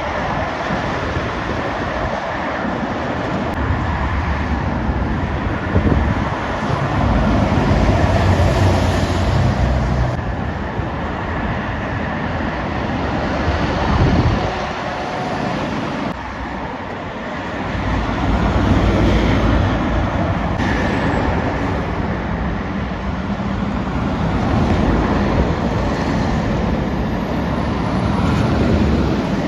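Heavy trucks driving past on a busy main road. The deep engine and tyre noise swells as each truck goes by and eases between them.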